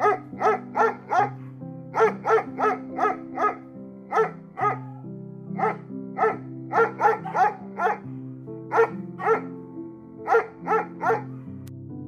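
A dog barking in irregular runs of quick barks, about three a second, over background music with sustained chords.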